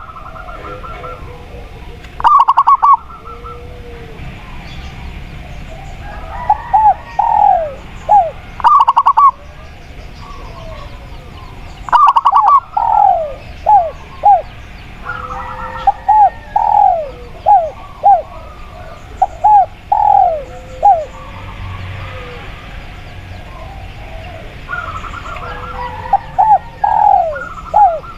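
Spotted dove and zebra dove cooing together. Series of short, falling, hooked notes are answered by quick rapid-pulsed bursts, over a faint steady forest background.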